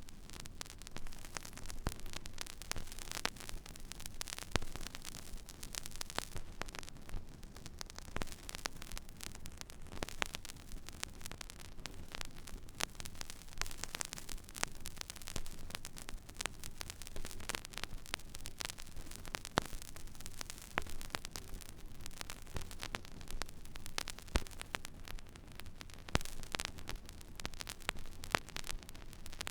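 Record player stylus tracking an empty vinyl groove: dense, irregular crackle and pops over a soft surface hiss, with a low steady hum underneath.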